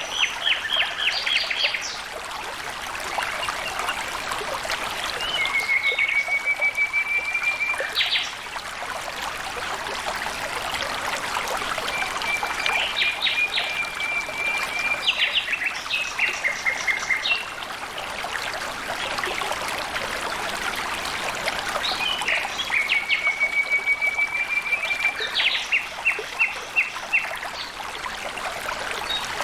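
Stream water flowing steadily, with a bird calling repeatedly over it: quick runs of short notes and three long, even trills lasting a few seconds each.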